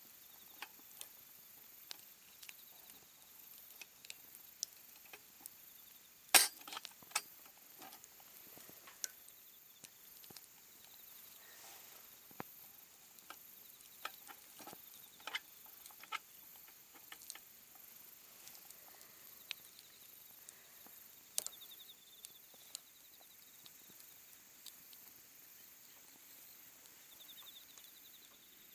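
Sporadic small clicks and light knocks, irregular and scattered, over a faint steady hiss; the loudest is a short cluster about six seconds in, with another sharp click about twenty-one seconds in.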